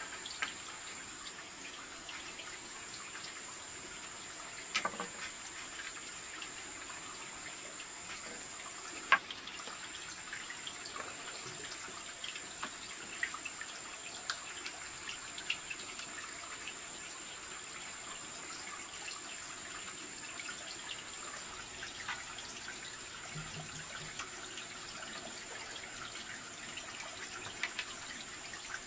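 Water trickling and dripping steadily, with scattered small ticks and a steady high-pitched whine throughout.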